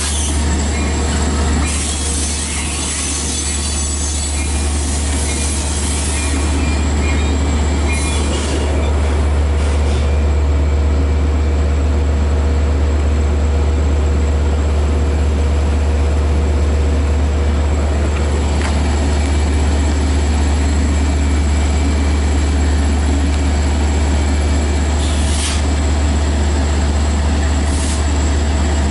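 Long Island Rail Road DE30AC diesel train running, a loud steady low rumble under continuous wheel and rail noise, with brief flashes of high squeal.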